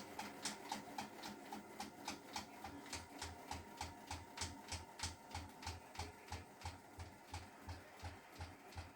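Hotpoint washing machine knocking in a steady ticking rhythm of about three knocks a second, with a low thud under each knock from about two and a half seconds in. The owner thinks a trouser drawstring is catching inside the drum.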